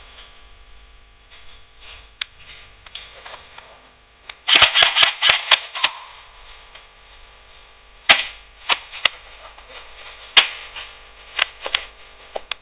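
Airsoft guns firing: a rapid string of about eight sharp shots a little past the middle of the first half, then single shots spaced about a second apart.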